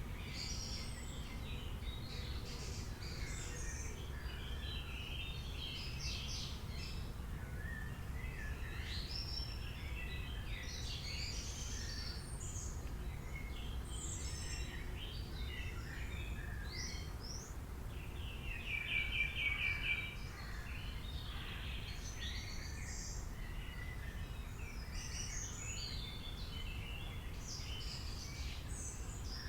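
Several birds calling and singing together, a busy mix of chirps and short phrases, with one louder rapid trill about two-thirds of the way through. A steady low rumble runs underneath.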